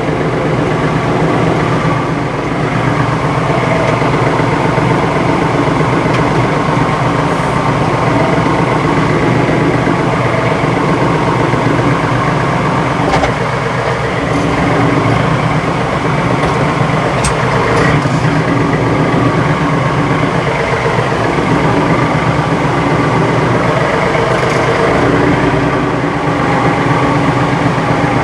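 Compact diesel tractor engine running steadily as the rear three-point hitch lifts a heavy log on pallet forks.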